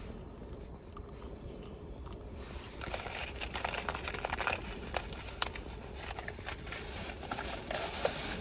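Rustling, crinkling handling noise with scattered sharp clicks, starting about two and a half seconds in, over a low steady hum.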